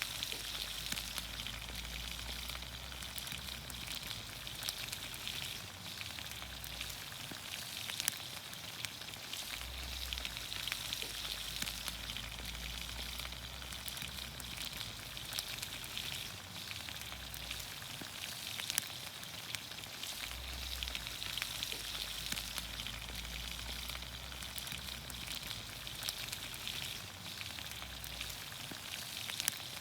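Vegetables in olive oil sizzling in a pan over a campfire, a steady frying hiss dotted with frequent sharp pops and crackles.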